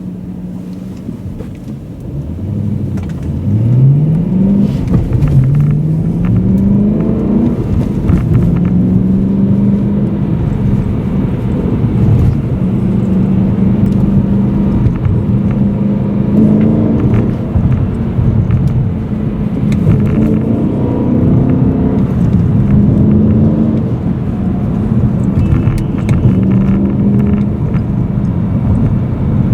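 BMW M3 E92's 4.0-litre V8 heard from inside the cabin, running steadily at first, then revving up through two gears with an upshift about five seconds in. It then holds fairly steady revs while cruising, rising and easing a little now and then.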